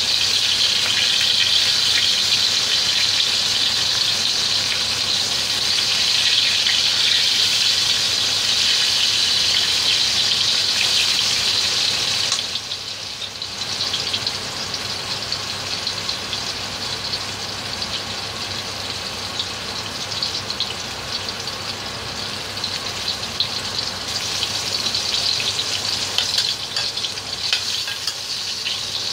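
Oil sizzling and crackling in a wok as flour-coated stuffed bitter gourd slices pan-fry. The sizzle drops sharply about twelve seconds in, then builds a little again near the end.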